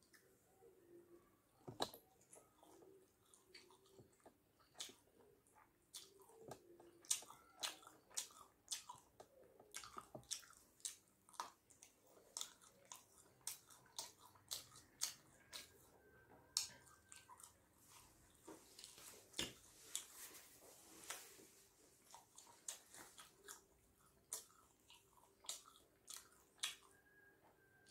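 Close-miked mouth sounds of a person chewing and biting chicken momos: many quiet, sharp clicks and smacks at an irregular pace.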